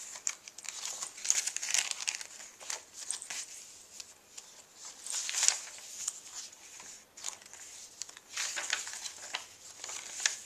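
Eco-dyed paper pages of a handmade journal being turned and handled, with crinkling rustles that come in separate bursts every second or two.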